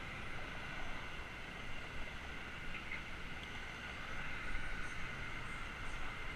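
Steady rushing noise from a bicycle ride recorded on a GoPro: wind and tyre noise, even throughout, with a few faint light ticks.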